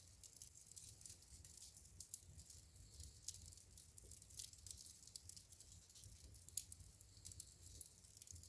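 Wood fire crackling in a fireplace: a constant scatter of small sharp pops and snaps over a faint low rumble, with a few louder pops standing out.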